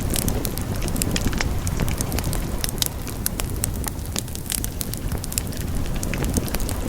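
Wood fire burning with a steady low rumble and frequent sharp crackles and pops, many small ones scattered irregularly.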